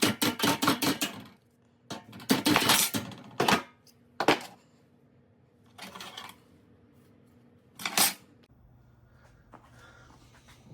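Light metal clinking and clattering, like small steel parts and tools handled on a workbench: a rapid run of clicks at the start, a longer clatter about two seconds in, then single knocks and short clinks at intervals.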